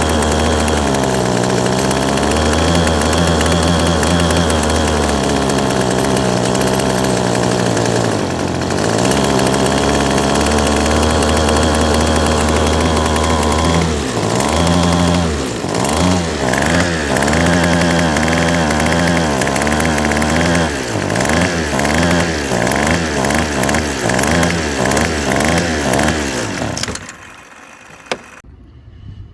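Small two-stroke engine of a 25cc string trimmer, freshly fitted with a new carburetor, running with no cutting head on. It runs steadily with a couple of brief dips in speed, then about halfway through revs up and down roughly once a second, and cuts out shortly before the end.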